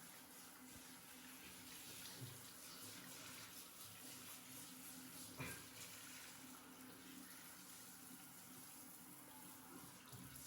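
Faint, steady running tap water in a small bathroom, with one brief knock about five seconds in.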